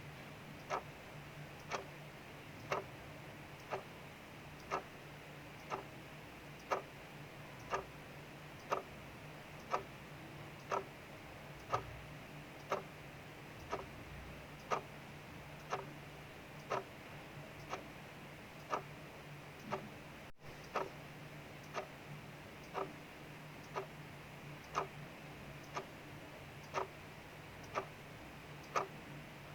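A clock ticking steadily, about once a second, over a soft steady hiss of rain.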